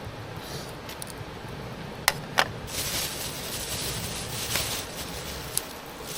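Two sharp clinks a fraction of a second apart, then a few seconds of hissing with a couple of lighter clicks, typical of metal camp cookware being handled.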